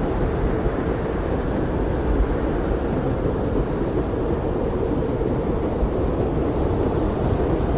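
Blizzard wind blowing steadily: a low, even rush of noise with no gusts or breaks.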